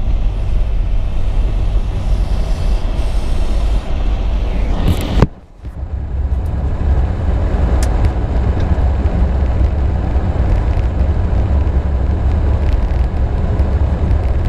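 Car cabin noise while driving through deep snow: a steady low rumble of engine and tyres. About five seconds in there is a brief loud rush, then a short sudden drop-out before the rumble resumes.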